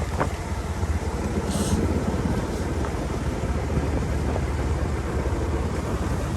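Motorcycle riding noise: a steady low wind rumble on the microphone over the running engine, with a brief hiss about one and a half seconds in.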